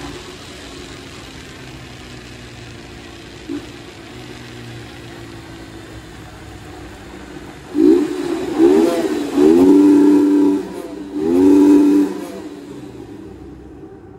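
150 cc motorcycle engine running steadily under the rider, then revved hard four times from about eight seconds in. Each rev climbs quickly in pitch and holds briefly near the top, in a road tunnel.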